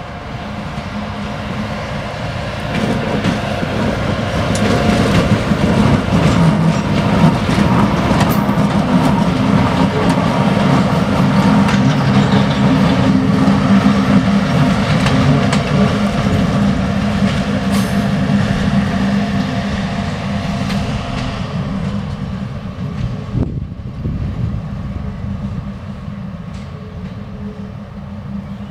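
Diesel locomotive hauling a track-measuring coach past at speed: the engine drone and wheel noise build, are loudest from about 6 to 15 seconds in, then fade as the train draws away. Wheels click over rail joints now and then.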